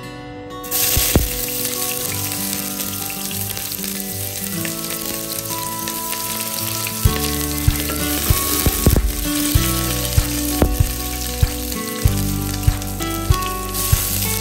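Sliced onions frying in hot oil in a stainless steel pot: a steady sizzle that starts suddenly about a second in, stirred with a wooden spoon. Background music plays throughout, with a regular beat from about halfway.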